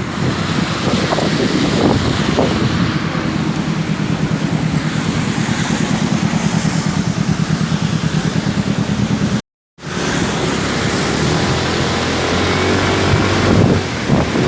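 Motorcycle engine running steadily while riding, its low pulsing note mixed with wind rushing over the microphone. The sound cuts out completely for a moment about two-thirds of the way through, and the engine note is lower afterwards.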